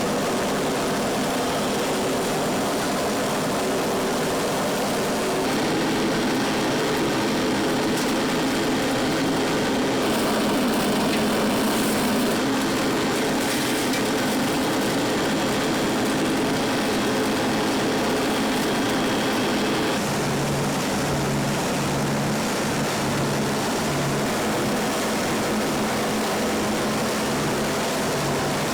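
Factory machinery running steadily with a constant mechanical hum; the noise changes a little about 5 s in and again about 20 s in, after which a low hum pulses about once a second.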